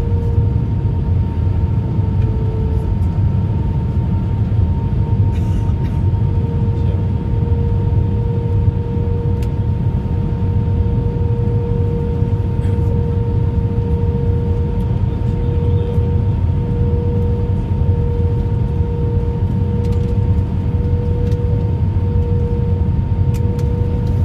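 Cabin noise of an Airbus A319 with CFM56 engines: a steady low rumble of engines and airflow with a constant hum at two pitches, one higher and fainter than the other.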